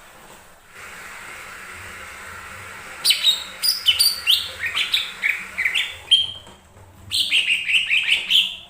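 Cucak ijo mini (a small leafbird) singing: fast runs of sharp, falling whistled notes in two loud phrases, the first starting about three seconds in and the second about seven seconds in, over a steady hiss.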